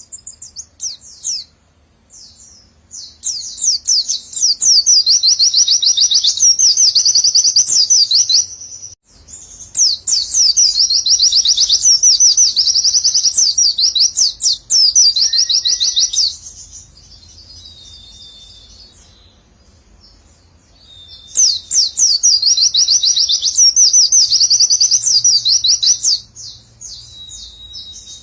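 White-eye (pleci) singing its rapid 'nembak' song: long unbroken runs of fast, sweeping 'wit-wit-wit' notes, in three bouts of several seconds each with quieter gaps between.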